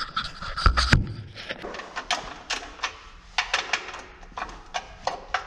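Irregular clicks, knocks and rattles of hands working on the recoil pull starter of a pressure washer's small engine, with a heavier thump about a second in.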